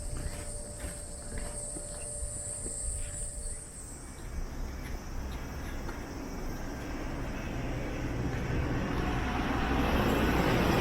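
A light-rail tram approaching, its low rumble growing steadily louder over the last several seconds, with insects buzzing in the first few seconds.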